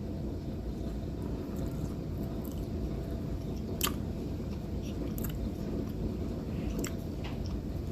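A person chewing a bacon-and-egg taquito close to the microphone, with a few small clicks, the sharpest about four seconds in, over a steady low background hum.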